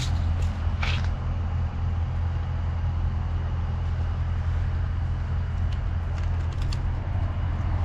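Steady low engine hum from a running vehicle, with a few faint clicks about a second in and again near the end.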